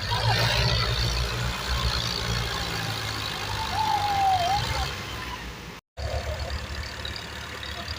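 Tractor diesel engines running, with a strong low rumble that is loudest over the first five seconds. The sound cuts out for a moment about six seconds in and returns quieter.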